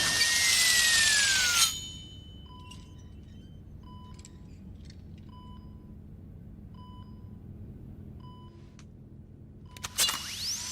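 A surgical bone saw whining at high speed, its pitch sliding up and down, cuts off suddenly about two seconds in. Then an electronic patient monitor beeps about once a second in a quiet room, until a sharp hit near the end brings the high whine back.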